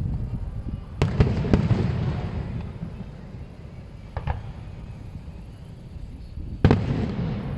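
Aerial firework shells bursting: three sharp bangs in quick succession about a second in, a smaller pop around four seconds, and another loud bang near the end, each followed by a low rumble.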